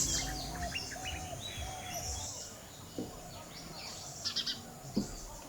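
Birds chirping and calling, many short high notes and trills, with two soft knocks about three and five seconds in.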